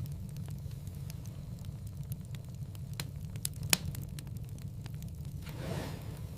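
Wood fire in a fireplace crackling, with irregular sharp pops and a steady low rumble underneath; the loudest pop comes a little past halfway.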